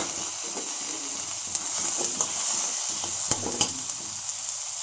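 Oil sizzling steadily in a kadai as onions, chana dal and freshly added tomato pieces fry. A steel spoon stirs them, clicking against the pan a few times.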